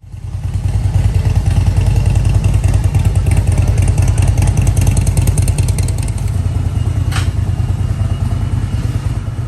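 Motorcycle engine running loud with a rapid low pulsing beat, starting abruptly. There is one short sharp clack about seven seconds in.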